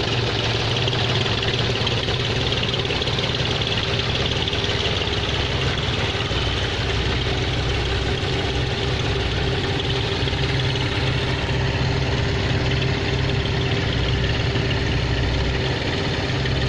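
John Deere 5050D tractor's diesel engine running steadily at a constant speed.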